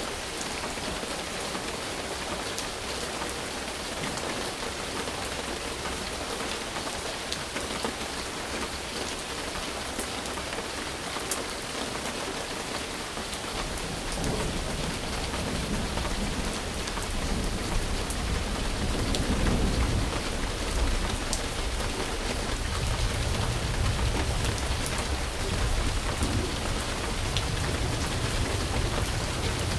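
Steady rain falling, a continuous hiss with scattered drop ticks. About halfway through, a low rolling rumble of thunder comes in under the rain and goes on to the end.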